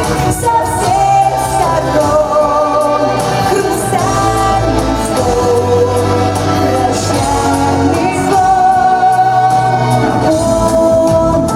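A woman singing a song over instrumental backing, holding long notes.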